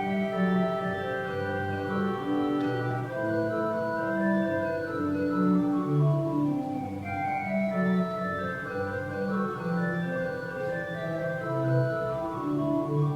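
Organ music: slow, sustained chords held over a moving bass line.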